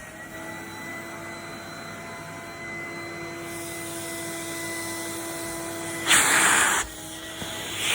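Vacuum cleaner running with its airflow muffled and a steady motor whine. About six seconds in, a loud rush of air lasts under a second, and then the sound is muffled again.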